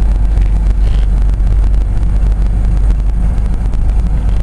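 A Toyota 4Runner's 3.4-litre V6 idling at about 1000 rpm with the truck standing still, heard inside the cabin as a steady low hum.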